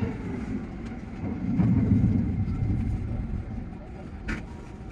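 Tsukuba Express TX-3000 series electric train running, a steady low rumble that swells briefly about two seconds in, with a short sharp click near the end.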